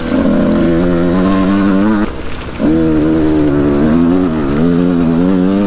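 Yamaha YZ125 125cc two-stroke motocross engine pulling hard under throttle. The throttle is shut off briefly about two seconds in, then opened again, the pitch wavering as the bike is ridden over the track.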